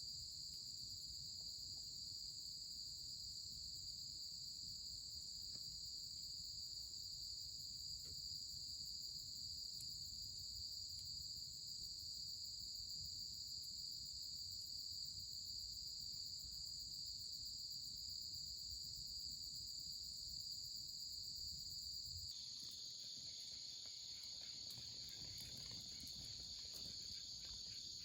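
A steady, high-pitched chorus of chirping insects, continuous and unbroken. Near the end a faint low background rumble drops away and the chorus shifts slightly.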